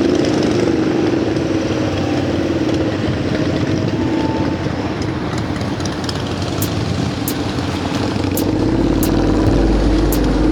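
Large engine running with a steady drone.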